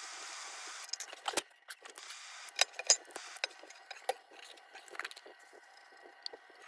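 Small metal lantern parts clicking and clinking as they are handled, in scattered sharp ticks, with a hiss fading out about a second in.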